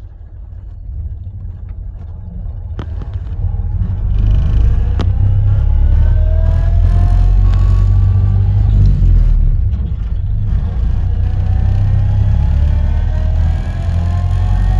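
A Ford Model A's four-cylinder engine pulling the car away and gathering speed: a low rumble that grows louder over the first few seconds and then holds steady. Above it, a whine rises in pitch, drops back and rises again as the car accelerates.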